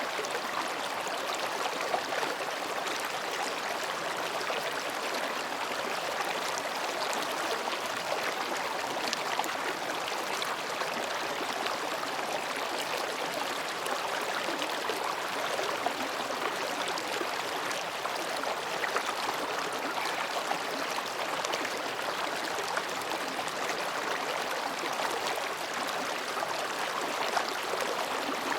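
Mountain stream babbling steadily over and between rocks, an even rushing with fine splashy flickers.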